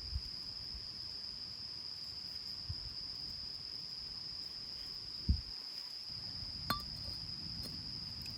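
Autumn night insects, crickets, trilling steadily on one high pitch. A few soft low thumps sound over it, the loudest about two-thirds of the way through, followed by a light clink.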